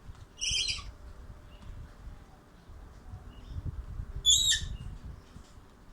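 A bird calling twice, about half a second in and again just past four seconds, each a short high call, over a low rumble of wind on the microphone.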